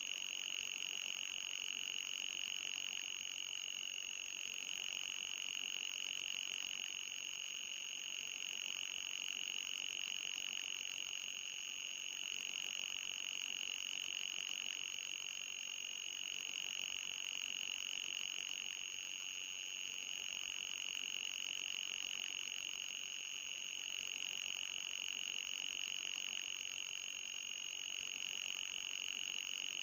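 Electronic mosquito-repellent sound effect: a continuous high-pitched synthetic tone, with a fainter, higher tone above it, wavering slightly now and then.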